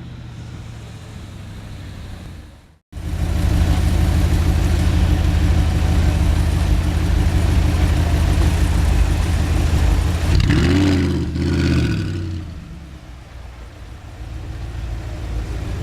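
Audi R8 engine sound. It drops out briefly about three seconds in, comes back loud and steady, and revs up and back down once near eleven seconds. Then it fades and builds again.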